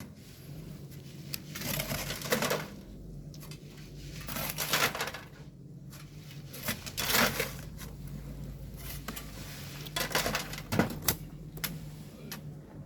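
Shovels scooping and tossing loose volcanic sand, a gritty rush about every two and a half seconds with small clinks of metal and stones between, over a steady low hum.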